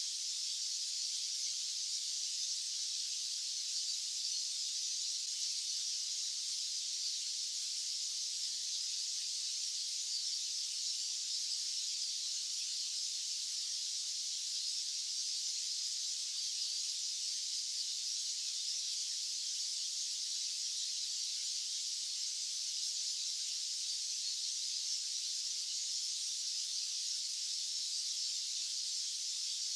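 Steady, unchanging white-noise hiss, high-pitched and thin, with no low end.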